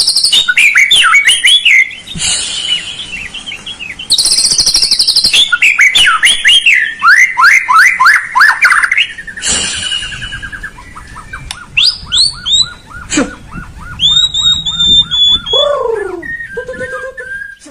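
White-rumped shama (murai batu) singing a loud, varied song: rapid chirps and trills, then a fast run of repeated notes and clear whistles sliding down in pitch near the end.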